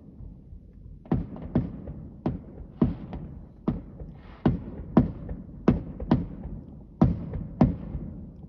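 Aerial fireworks bursting overhead: an irregular run of sharp bangs, about two a second, starting about a second in, each trailing off briefly.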